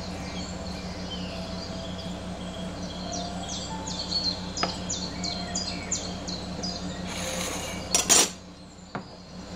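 A small bird chirping a quick run of short, high, falling notes, about three a second, over a steady low hum. Near the end comes a rustle and then a sharp knock as the plate of sliced banana is moved on the counter.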